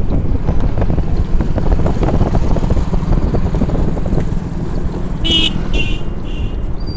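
Wind buffeting the microphone with a steady low rumble while travelling along a road. Near the end there are three short, high beeps.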